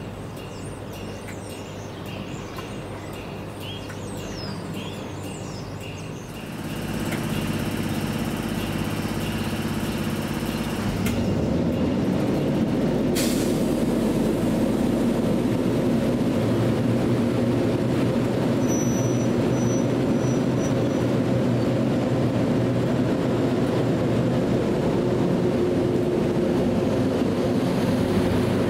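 A train running through a station: its noise swells about six seconds in, grows again about eleven seconds in, and then holds as a steady rumble, with one sharp click partway through.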